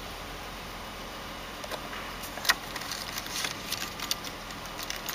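Toyota 1G-FE inline-six running quietly at idle, a steady low hum, with a few light clicks and ticks in the second half.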